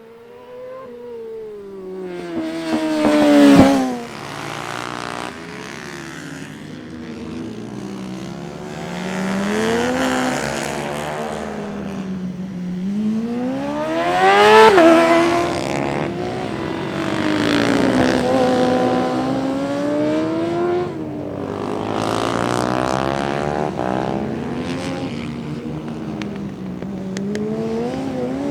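Yamaha R6 600cc supersport motorcycle engine revving hard and dropping back over and over as it laps a small kart track. It is loudest at two close passes, about three seconds in and about halfway through.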